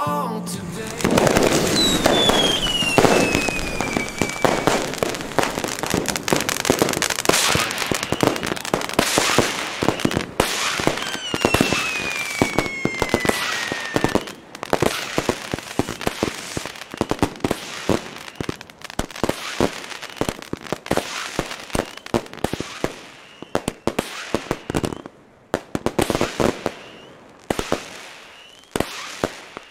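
Jorge Turbo fire-pot howler firework battery firing: a rapid stream of crackling shots, with two howling whistles that fall in pitch about two and eleven seconds in. In the last third the shots come in separate bursts with short gaps between them.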